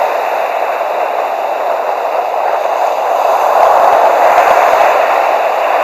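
Sea surf breaking and washing on a beach: a loud, steady rush of waves with no separate crashes standing out.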